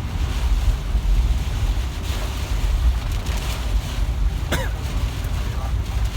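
Typhoon-force wind buffeting the microphone in fluctuating gusts, a heavy rumble with a rushing hiss over it. A brief squeal sounds about four and a half seconds in.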